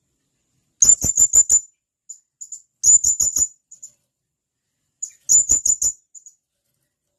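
Blue-crowned hanging parrot (serindit) calling: three quick bursts of four or five sharp, very high-pitched notes, about two seconds apart, with a few softer single notes between them.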